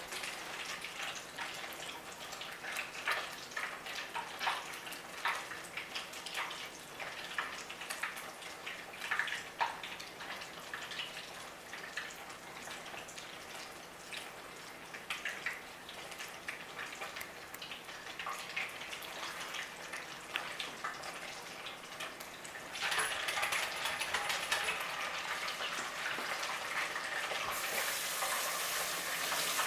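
Breaded fried grits cakes cooking in a deep fryer, the hot oil crackling and popping. About 23 s in, a louder steady rushing hiss comes in and grows stronger near the end.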